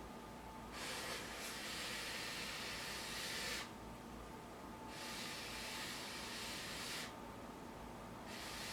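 Handheld gas torch burner hissing in three bursts of two to three seconds each, with short gaps between them.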